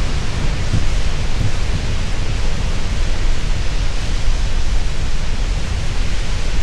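Waterfall roaring: a steady, loud rush of falling water with no break.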